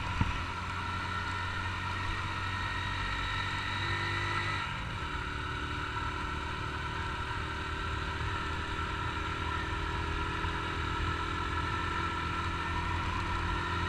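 Honda CG 150 Titan's single-cylinder four-stroke engine running steadily while riding, its note changing about five seconds in.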